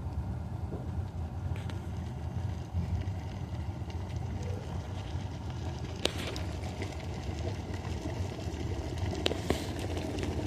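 Electric kettle coming to a full boil: a steady low rumble of water boiling inside, with a couple of light clicks about six and nine seconds in.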